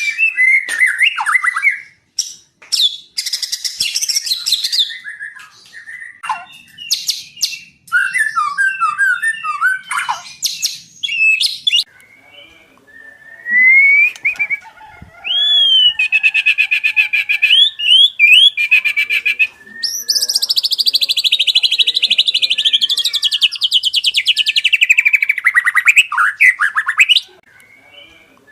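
White-rumped shama singing a loud, varied song with no pauses: clear whistled glides, rapid choppy notes and trills, and near the end a long fast trill that slowly falls in pitch.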